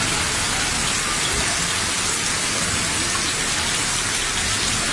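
Heavy rain pouring steadily onto a paved road, a constant even hiss.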